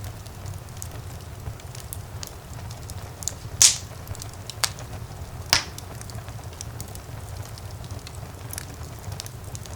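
Wood fire burning in a fireplace: a steady low rumble of flames with scattered crackles and three louder sharp pops in the middle.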